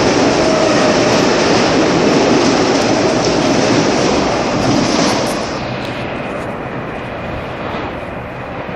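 Metro-North M8 electric multiple-unit train passing at speed along the platform without stopping: a loud, steady rush of wheels on rail and moving air. It drops off suddenly about five seconds in as the last car clears, then fades as the train recedes.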